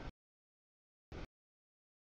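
Two brief snatches of a freight train's rolling noise, about a second apart. Each cuts off abruptly into dead silence.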